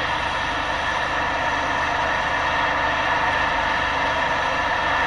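Steady vehicle engine noise heard inside a car's cabin.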